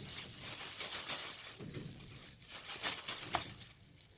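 Irregular crinkling and scratching as a rainbow lorikeet worries an object with its beak and feet, in short quick ticks.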